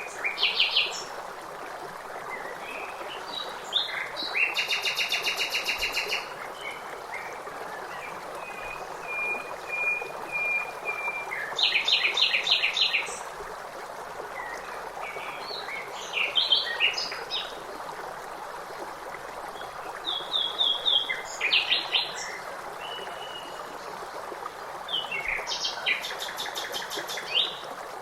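Songbirds singing in short phrases of fast repeated chirps and trills, one every few seconds, over a steady rush of running water.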